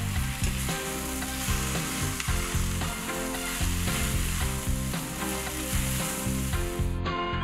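Noodles with bell pepper and onion sizzling in a hot oiled pan as they are stir-fried in soy sauce. The sizzle stops abruptly near the end.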